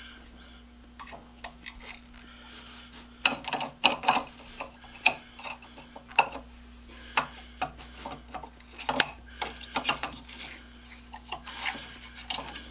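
Irregular metallic clicks and clinks as a rusty nut is worked off the steel through-bolt that serves as a forge ash gate's pivot pin, with a faint steady hum underneath.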